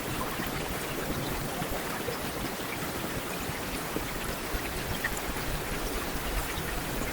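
Heavy rain falling steadily, a dense even hiss with scattered individual drops pattering on hard surfaces.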